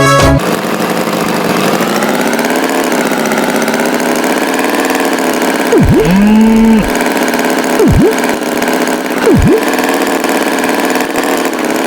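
Tractor engine idling steadily. Three quick swooping sound effects dip down and back up in pitch about six, eight and nine and a half seconds in, and a short low steady tone sounds around the first of them.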